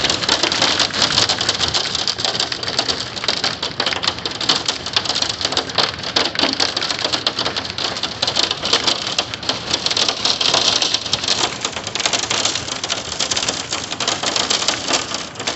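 Hail storm with heavy rain: a dense, steady clatter of hailstones over the hiss of pouring rain.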